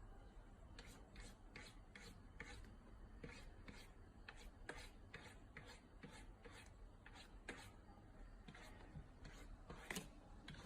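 Near silence with faint, irregular scratchy clicks, about one or two a second.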